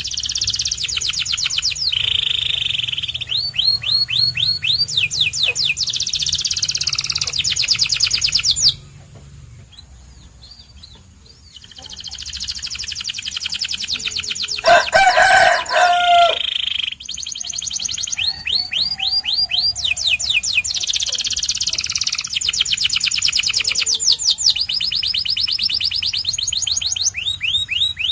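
Domestic canary singing in rapid trills, each phrase a fast run of one repeated note, with phrases switching pitch one after another. The song breaks off for a few seconds about a third of the way in. Around halfway a louder, lower-pitched call of about two seconds stands out.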